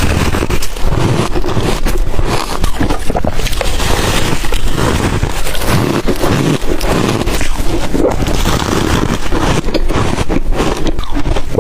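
Close-up crunching of ice dusted with matcha and milk powder as it is bitten and chewed, a dense run of crackling crunches without a break.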